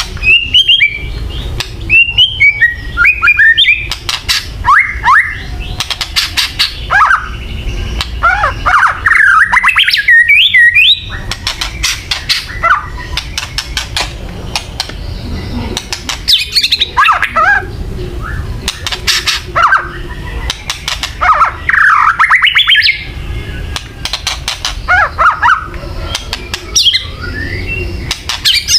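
White-rumped shama (murai batu) giving kretekan: bouts of harsh, rapid rattling calls mixed with short whistled notes, repeated every few seconds. These are the bird's agitated challenge calls, used to provoke a rival male.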